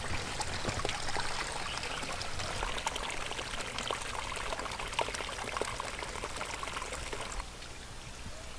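Steady rain falling, with water trickling and running and many small drops ticking. It eases a little about seven seconds in.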